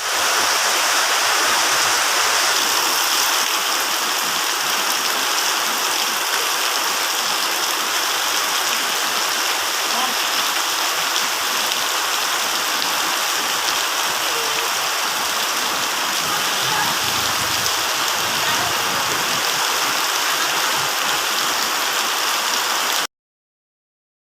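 Steady rush of heavy rain and running floodwater that the drains cannot keep up with. It cuts off abruptly near the end.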